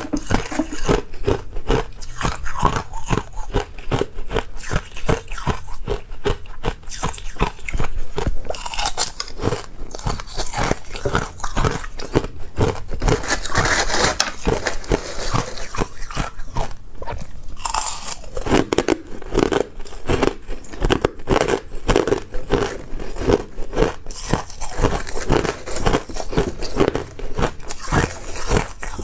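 Close-miked crunching and chewing of ice: teeth biting through and grinding ice in rapid, continuous crunches.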